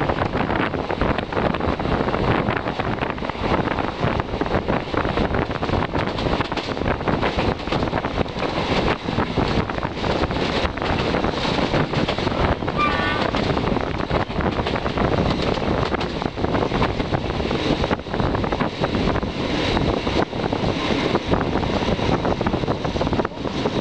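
A passenger train's steady running noise, heard from an open carriage window, with wind buffeting the microphone. A brief wavering high tone sounds about halfway through.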